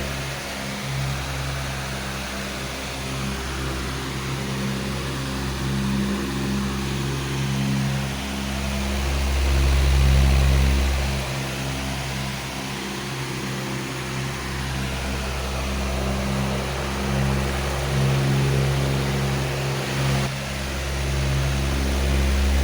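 Powerful electric fan running steadily: a low motor hum under a rushing of air that slowly swells and eases in loudness.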